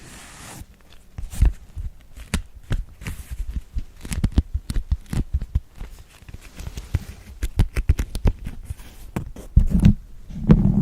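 ASMR tapping on wax cloth and a cork pad: a quick, irregular run of soft taps and crinkles, growing denser and louder near the end.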